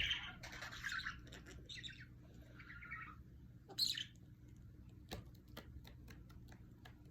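Budgerigar chirping and chattering in several short bursts over the first four seconds, followed by a few light clicks.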